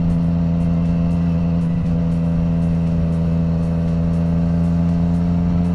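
Yamaha MT-09 Tracer's inline-three engine running at a steady highway cruise, a constant drone that holds one pitch throughout.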